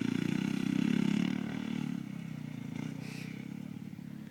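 Motocross bike engine running at speed, loudest for the first second and a half, then fading as it moves away.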